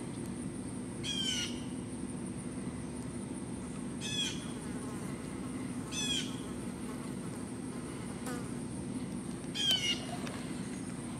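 A bird calling four times, a few seconds apart, each call a short harsh squawk, over a steady low hum.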